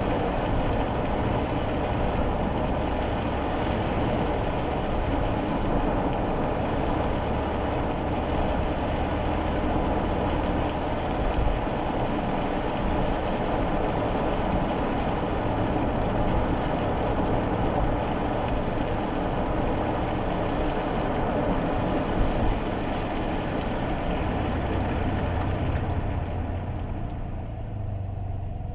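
Inside a moving kei car's cabin on a wet road: steady road and tyre noise with a low engine hum. The tyre hiss fades near the end.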